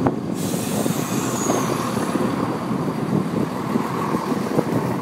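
CrossCountry class 170 Turbostar diesel multiple unit running through the platform with its diesel engines working: a steady rumble, with a hiss and a faint falling whistle over it.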